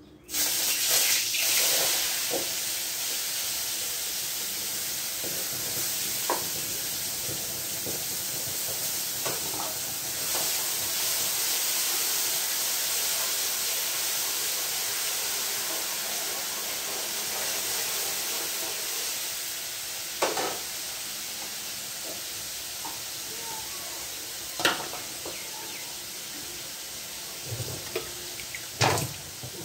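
Raw ginger-onion-garlic-chilli-tomato masala paste dropped into hot tempering oil in a steel karahi, sizzling loudly at once and settling into a steady, slowly fading hiss as it is stirred. A few knocks of the spatula against the pan come near the end.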